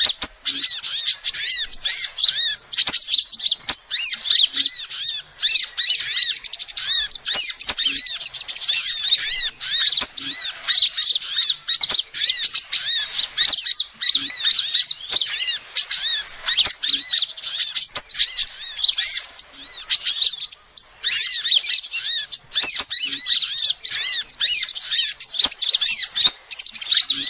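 Female sunbird ('kolibri') calling in a fast, unbroken string of high chirping notes, with a brief pause about three-quarters of the way through.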